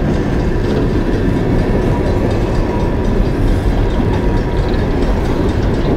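Loaded coal train's hopper cars rolling past at close range: a steady, loud rumble of steel wheels on the rails, with a faint thin whine in the middle.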